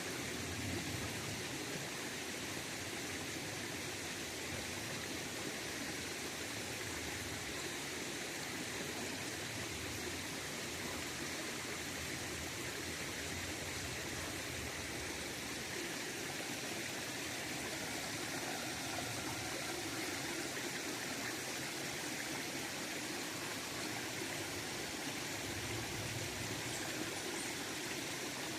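River water running steadily: a continuous, even rush of flowing water.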